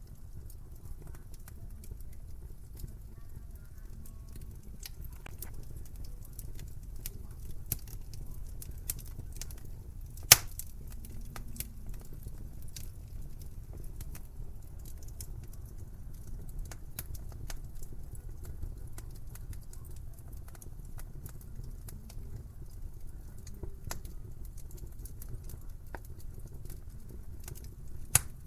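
Wood fire crackling in a fireplace: irregular sharp pops and snaps over a low steady rumble, with one loud pop about ten seconds in and another near the end.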